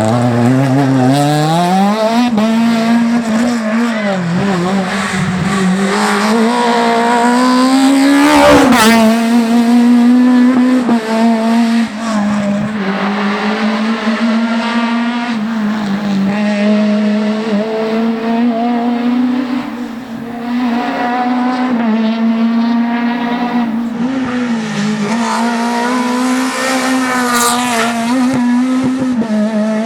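Škoda Octavia Kit Car rally car's naturally aspirated four-cylinder engine running hard at high revs. The note climbs over the first couple of seconds, then holds high and fairly steady, with a sudden break about eight and a half seconds in and brief dips later on.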